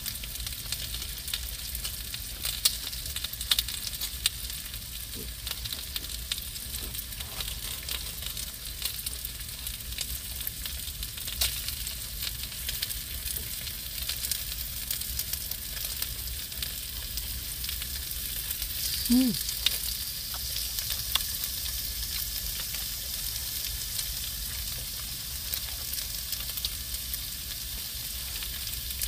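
Food sizzling steadily in a pan, with scattered small pops and crackles.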